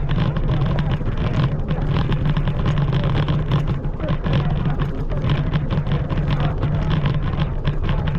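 Scooter's motor running steadily at one pitch as it rides along, with rattling road noise from the ride.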